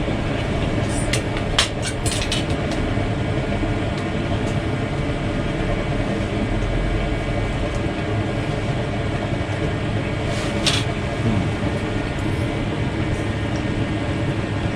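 Chicken grilling over charcoal briquettes: a steady hiss over a low rumble, with a few light clicks in the first seconds and another about ten seconds in.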